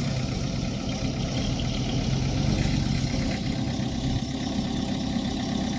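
Diesel engine of earthmoving machinery running steadily at an even speed, with no rise or fall in pitch.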